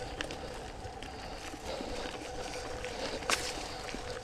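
Mountain bike riding along a dirt singletrack trail: tyre and frame rattle noise with scattered clicks and knocks over a steady faint hum, and one sharp knock about three seconds in.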